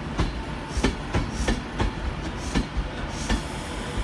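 Virgin Trains Class 390 Pendolino coaches rolling past, their wheels giving a regular clickety-clack over the rail joints, about three clicks a second, over a steady rumble.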